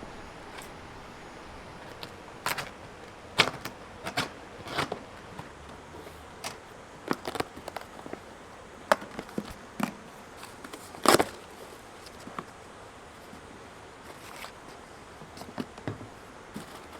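Camping gear being handled: scattered clicks, knocks and scrapes, the loudest knock about two-thirds of the way through.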